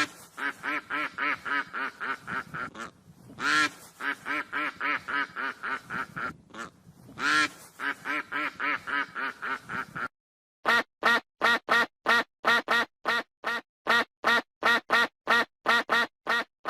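Duck quacking in rapid runs of short calls, about four a second, with a few louder, drawn-out quacks among them. After a brief break about ten seconds in comes a cleaner run of evenly spaced quacks, about three a second.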